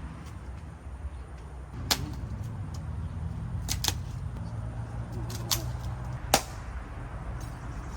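Open wood fire burning, with five or so sharp pops and cracks at irregular intervals over a low steady hum.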